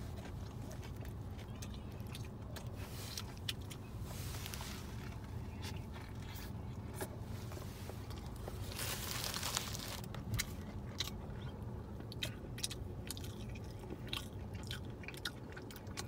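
A person biting into and chewing a double cheeseburger with bacon and onion rings, with small crunching clicks, two short rustles of the paper wrapper and a steady low hum underneath.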